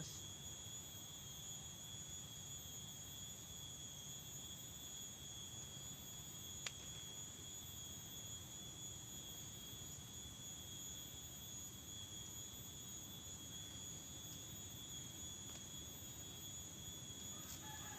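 A steady, high-pitched insect drone, likely crickets, over a low, even rush of background noise, with a single sharp click about seven seconds in.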